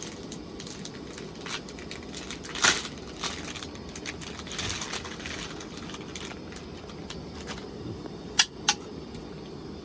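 Handling noises from preparing raw chicken for seasoning: light rustling and a few sharp clicks, two of them close together near the end, over a steady background hiss.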